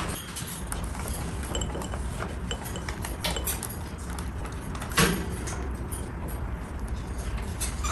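Light clinks and knocks of kitchen utensils and dishes, with two louder knocks about three and five seconds in, over a steady low hum.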